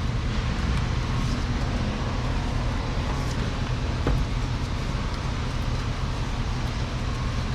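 Steady low mechanical rumble of an engine running, with one light knock about four seconds in.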